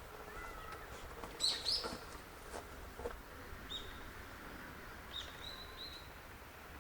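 Small birds chirping in short, high calls, some sliding quickly in pitch, with a few faint clicks among them.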